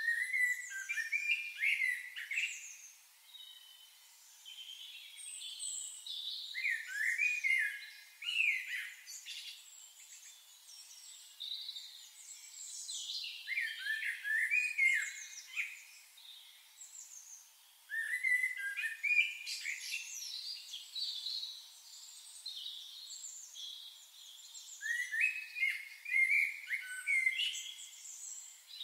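Birds singing: a songbird phrase of quick, sliding chirps repeats about every six seconds, with further chirps and calls in between.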